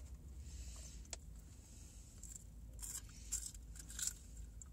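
Crispy seasoned curly fries being bitten and chewed, a few short crackly crunches spread over the seconds, mixed with the light rustle of a cardboard fry box. A low steady hum sits underneath.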